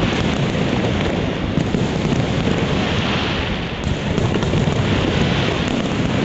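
Fireworks display: a steady, dense din of many overlapping bursts and crackles with no single bang standing out, with wind noise on the microphone.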